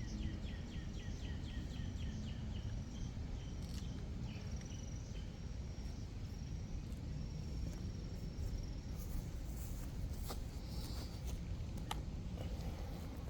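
Outdoor background: a steady low rumble with a rapid run of high chirps, about six a second, in the first three seconds, then thin high whistled calls, and a few sharp clicks near the end.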